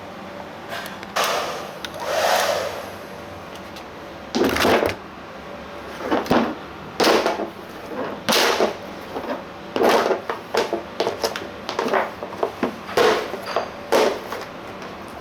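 Irregular knocks, clacks and short scraping clatters of a removed plastic car bumper being handled and worked, over a steady hum.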